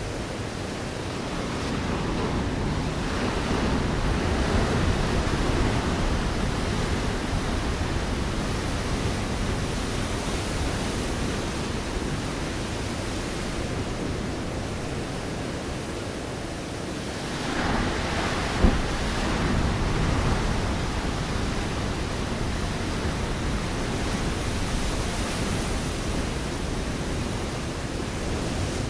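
Ocean waves breaking on a rocky shore: a steady wash of surf that swells as a wave breaks a few seconds in and again past the middle. A single sharp knock sounds during the second swell.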